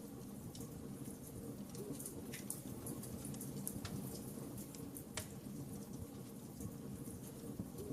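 Fire burning in a fireplace: a steady low rumble of flames with scattered, irregular sharp crackles and pops.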